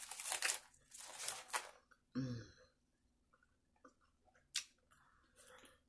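Mouth noises of biting and chewing buttered corn on the cob: a quick run of chewing sounds in the first second and a half, then a short low hum from the eater. A single sharp click comes about four and a half seconds in.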